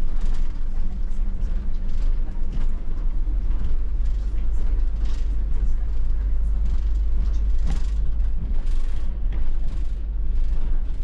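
Bus engine and road rumble heard from the driver's seat while driving, low and steady, with scattered small rattles and clicks.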